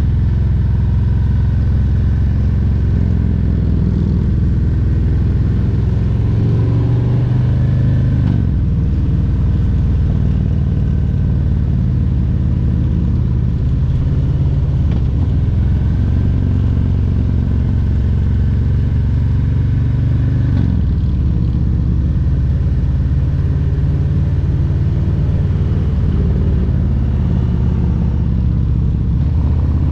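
Harley-Davidson Road Glide Special's 114 cubic-inch Milwaukee-Eight V-twin running under way on the road. The engine pitch climbs and then drops back, about 8 seconds in and again about 21 seconds in.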